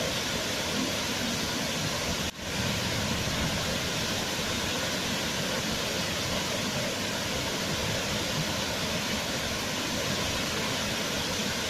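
Waterfall: a steady, even rush of falling water, with a momentary dip in level about two seconds in.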